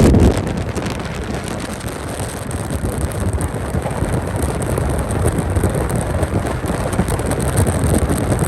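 Wind buffeting the microphone over steady vehicle and road noise. A louder sound dies away in the first half second.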